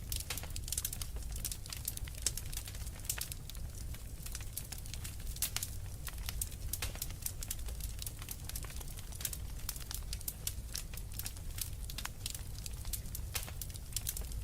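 Fireplace wood fire crackling, with many small sharp pops and snaps coming irregularly over a steady low rumble.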